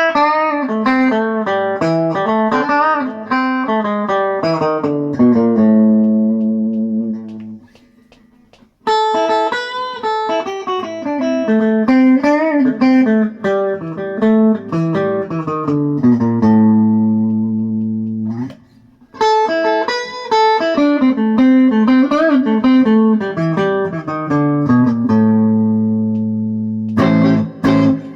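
Squier Bullet electric guitar fitted with PRS pickups, played through a clean tone: three phrases of picked chords, each ending on a held chord left to ring out, with brief pauses between them.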